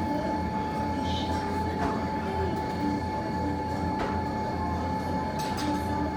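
Steady low rumble with a constant mid-pitched hum and a few faint ticks, the running background noise in front of an indoor fireplace.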